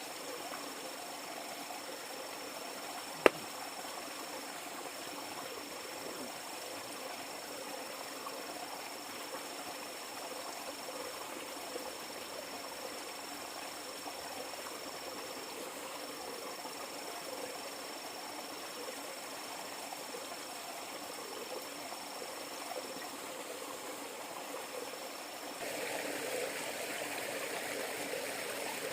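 River water flowing steadily, with a single sharp click about three seconds in; the water grows a little louder near the end.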